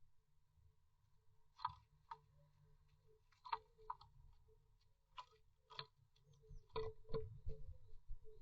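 Blue tit moving about in a wooden nest box: a scatter of sharp taps and scratching clicks, more frequent and louder near the end, over a faint steady hum.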